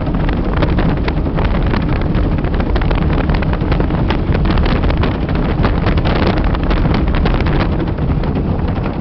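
Motorboat running under way, the engine's steady drone nearly buried under heavy wind buffeting on the microphone.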